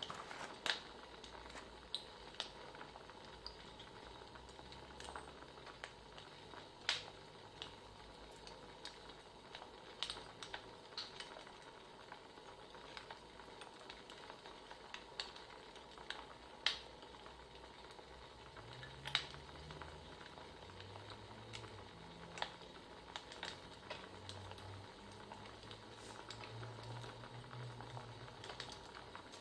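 Wood fire crackling: a soft steady hiss broken by irregular sharp pops and snaps, a few of them much louder than the rest.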